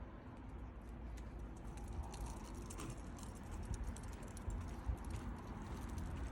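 Irregular light tapping and clicking over a steady low rumble.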